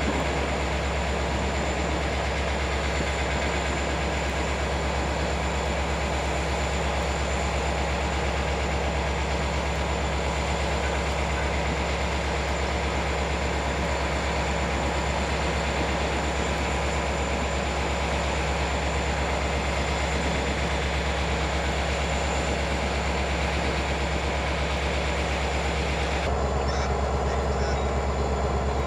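Steady low drone of a train standing close by, with a constant thin high whine over it and no pass-by rise or fall. The sound changes abruptly near the end.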